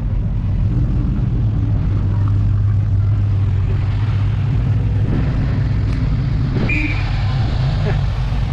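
Classic car engine running at low revs with a steady low rumble as it rolls slowly past.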